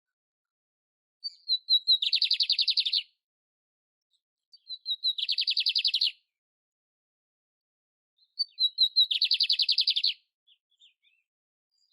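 Canário-império canary singing three phrases, each opening with a few short high notes and running into a fast trill of about a second.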